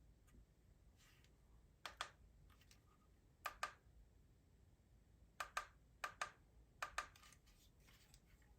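Short, sharp clicks that come in quick double pairs, five pairs at uneven intervals.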